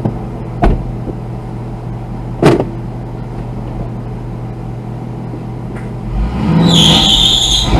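Car engine idling steadily, with two sharp knocks in the first few seconds. About six seconds in, the engine revs up and a loud high hiss sets in as the driver tries to drive the stuck manual car free.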